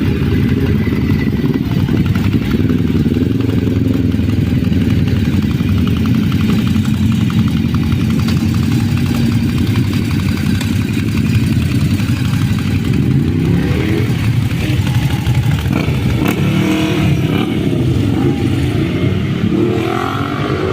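Motorcycle engine running at a steady pitch. In the last third the engine pitch rises and falls in several sweeps, as revving or bikes passing.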